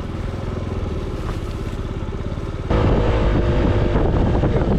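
Small motor scooter engine running at a low, steady idle, then opened up sharply about two-thirds of the way in and running louder as the scooter pulls away.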